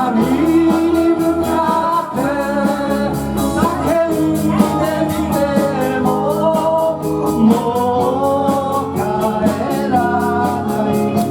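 A live band playing a rock number, with electric guitars over a steady drum beat with ticking cymbals and a voice singing the melody.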